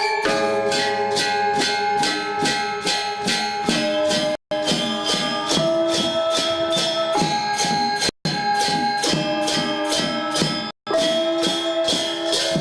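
Balinese gamelan gong ensemble playing a classical lelambatan piece: a steady stream of bronze metallophone and gong strokes, several a second, with ringing tones and a jingling metallic shimmer. The sound cuts out completely for an instant three times.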